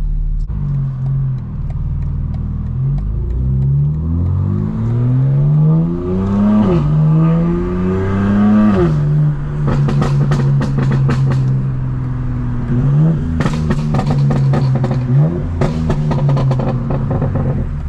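BMW M4 Competition's straight-piped twin-turbo inline-six accelerating through two upshifts: the revs climb, drop sharply at each shift, then hold steady. In the second half, rapid crackling pops come from the exhaust.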